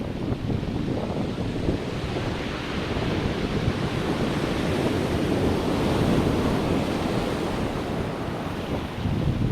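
Ocean surf washing onto a beach, swelling to its loudest about six seconds in, with wind buffeting the microphone.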